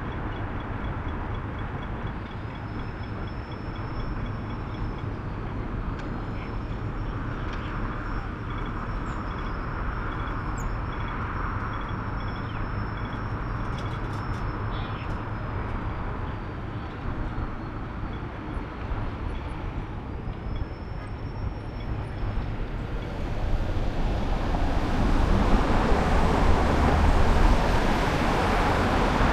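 Road and wind noise of a moving car picked up by a roof-mounted camera: a steady rumble that grows louder about 24 seconds in.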